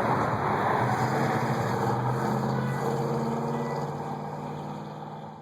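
Car engine running as the car pulls away, its sound fading steadily over the last couple of seconds.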